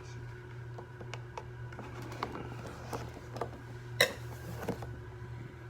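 Cardboard and plastic packaging of an action-figure box being handled and opened: scattered light clicks and crinkles, with one sharp snap about four seconds in. A steady low hum runs underneath.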